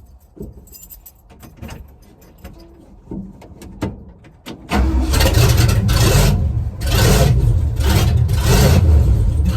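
A classic Ford truck's engine, after a few faint clicks, fires about four and a half seconds in and runs loudly, its level surging and easing every second or so. It is a test start with a newly fitted fuel line, to see whether the line was what made the engine stall.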